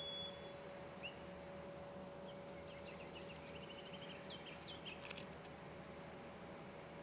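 Birdsong: thin, high whistled notes held for a second or two, then a quick run of short chirps and a few down-slurred notes, over a faint steady hum. A sharp click about five seconds in.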